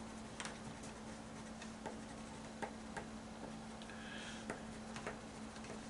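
Faint crayon strokes scratching on paper, with scattered light taps of the crayon and a couple of short rubbing passes, over a steady low hum.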